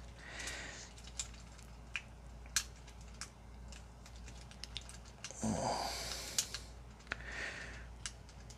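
Hard plastic parts of a Transformers action figure clicking and scraping as they are handled and worked into place, with scattered sharp clicks and a longer, louder scrape about five and a half seconds in.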